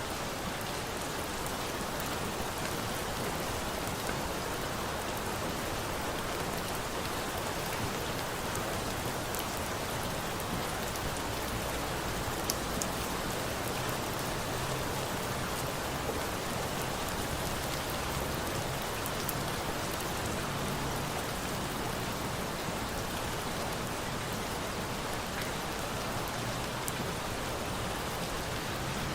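Steady rain, an even hiss, with a few sharp pops scattered through from a bonfire mixed in with it.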